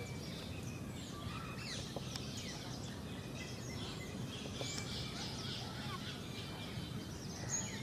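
Several birds chirping in short, quick calls, over a steady low background noise.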